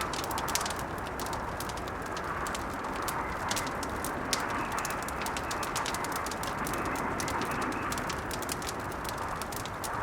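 Blizzard wind blowing in slow swells, with a wood fire crackling over it in many small, sharp pops.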